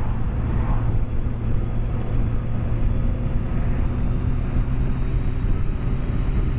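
BMW K1200S inline-four engine running at steady cruising revs with wind rush, heard through a microphone inside the rider's helmet.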